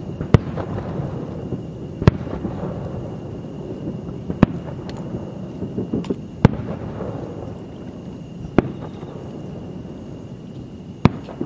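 Aerial firework shells bursting: six sharp bangs about two seconds apart, each followed by a fading rumble, with a few smaller crackling pops just before the fourth.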